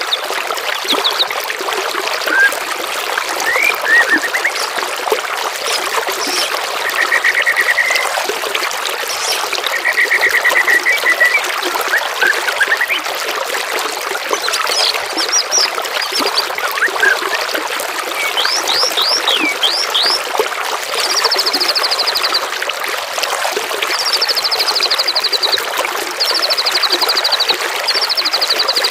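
Water trickling steadily, with songbirds calling over it: scattered short trills and quick falling whistles, then, from about two-thirds of the way through, four fast high trills of a second or so each in a row.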